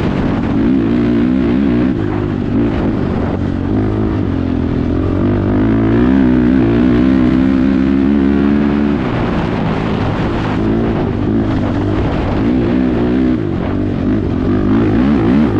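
Honda TRX 450R ATV's single-cylinder four-stroke engine running through an HMF aftermarket exhaust while being ridden, its pitch rising and falling with the throttle, loudest around the middle.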